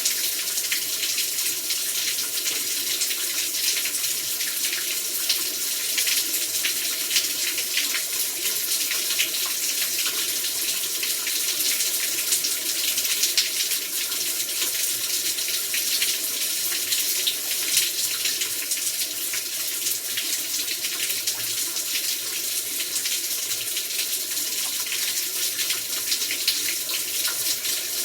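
Heavy rain falling steadily: a dense, even hiss, peppered with countless individual drop hits.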